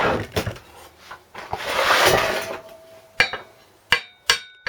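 Metal tools clattering, a rustle of handling, then three sharp hammer taps on metal that ring briefly after each strike. The taps are light blows from behind to free a stuck flywheel on an old Briggs & Stratton engine.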